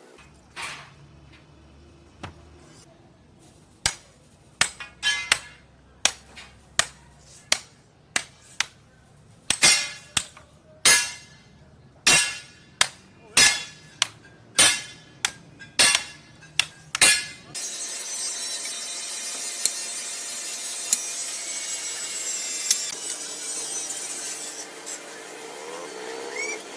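About twenty hand-hammer blows on metal, each ringing briefly, irregular at first and then about two a second. About 17 seconds in they give way to a steady, noisy run of a power tool or machine.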